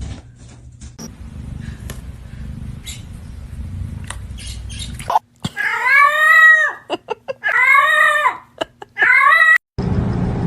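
A cat yowling three times, in long drawn-out calls that rise and then fall in pitch. Before that come a few seconds of quieter rustling and small clicks.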